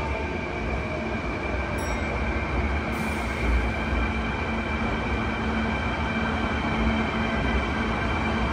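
Kintetsu electric train running in the station: a steady rumble and hiss of wheels and running gear, with a thin high tone over it.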